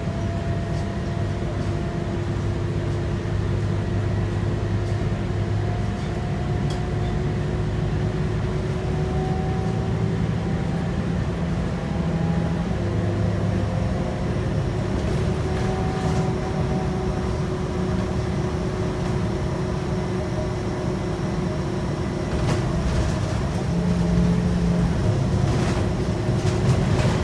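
Scania K230UB bus on the move: its five-cylinder diesel engine running under way, with a steady low rumble and whining notes that drift up and down as the speed changes. It grows louder from about two-thirds of the way through.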